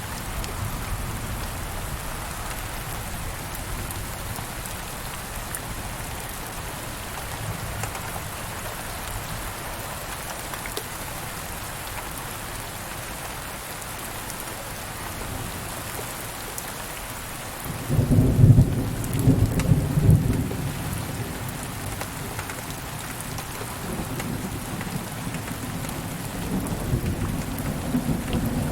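Steady rain falling, with a clap of thunder rolling in about two-thirds of the way through, loud and deep for a few seconds before fading to a low rumble. The rumble picks up again near the end.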